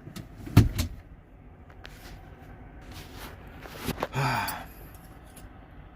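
A sharp knock about half a second in, then light clicks and rustling from things being handled, and a man's breathy sigh a little after four seconds.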